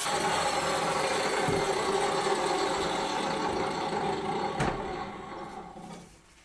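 A motor-driven machine running steadily, then winding down and stopping about five to six seconds in, with a sharp knock shortly before it fades.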